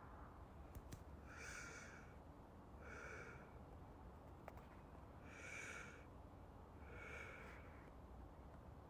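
Soft, slow breathing close to the microphone: four quiet breaths with a second or two between them, over a faint low hum.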